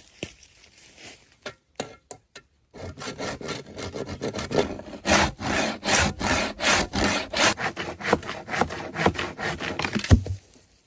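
A hand saw cutting wood in quick back-and-forth strokes, about two to three a second, starting about three seconds in after a few light knocks. The sawing stops near the end with a low thump.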